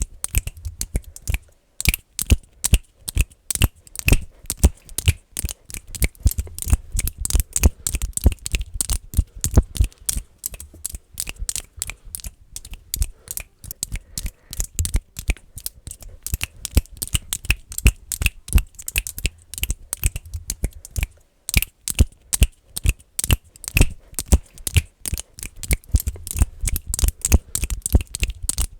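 Fast, aggressive finger clicking: rapid, irregular sharp clicks made with the fingers, several a second in bursts, with a few brief pauses.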